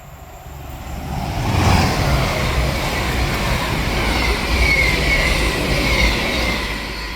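CrossCountry Voyager diesel multiple unit, a Class 220 and a Class 221 coupled together, passing through the station without stopping. The rumble swells over the first couple of seconds and holds, with a faint high whine falling in pitch in the second half.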